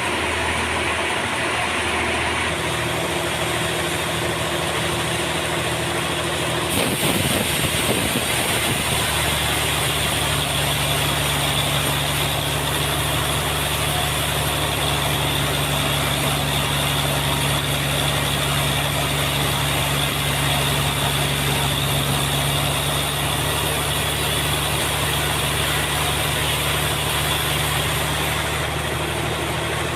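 Sawmill machinery running steadily with a constant engine-like hum; its note shifts about seven seconds in and then holds steady.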